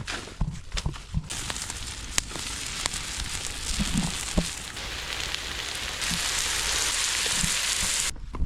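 Food sizzling as it fries in a pan, a steady hiss with scattered small clicks and pops; it grows louder about three-quarters of the way through and cuts off suddenly near the end.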